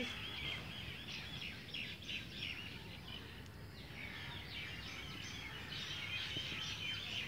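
Birds chirping, a steady run of short, quickly repeated high calls, over a low steady outdoor background noise.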